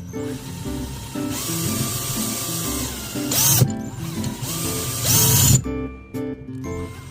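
A power drill running in two spells, its motor whine rising as it speeds up, each spell ending in a louder burst. Background music plays throughout.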